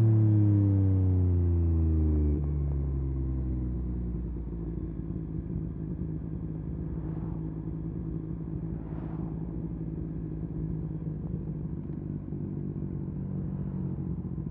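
Yamaha MT-09 SP's three-cylinder engine with a full Akrapovic race exhaust, its revs falling over the first two seconds or so, then settling into a steady idle.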